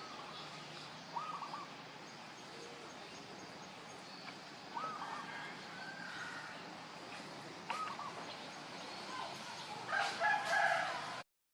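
Short animal calls over a steady background hiss: three brief arched calls a few seconds apart, then a louder run of calls near the end. The sound cuts out just before the end.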